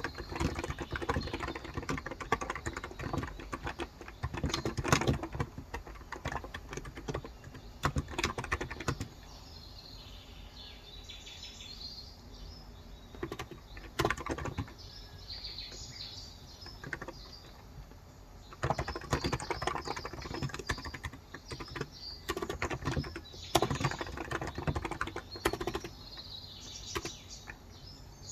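Fast typing on a Cox Endeavor electro-capacitive (Topre-style) 35 g tenkeyless keyboard, in two long bursts with a pause of several seconds between them. Birds chirp during the pause and again near the end.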